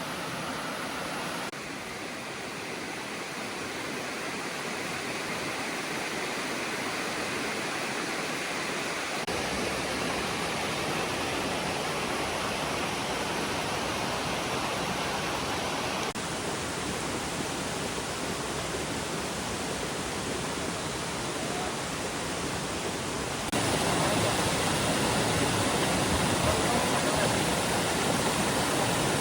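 Rushing water of a mountain stream and its waterfalls, a steady noise that changes abruptly in level and tone several times as the shots change, jumping loudest near the end.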